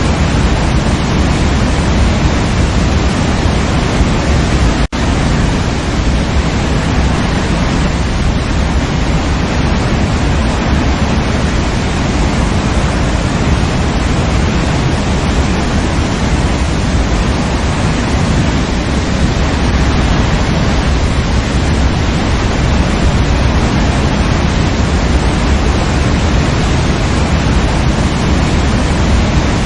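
Waterfall rushing in a steady, dense roar of falling water, with one momentary break in the sound about five seconds in.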